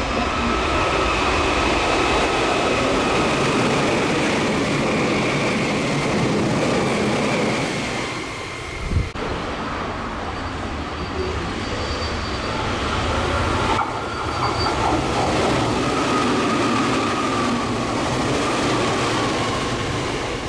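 Meitetsu electric trains running through a station at speed: a steady rush of wheels on rail with a thin high singing tone above it. There is a sudden break about nine seconds in, where a second passing train takes over.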